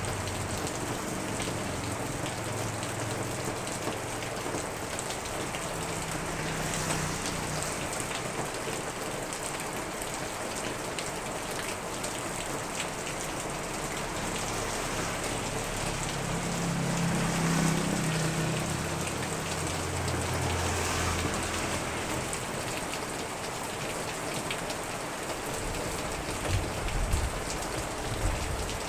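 Heavy typhoon rain pouring down steadily, with gusts of wind swelling twice. A few dull thumps come near the end.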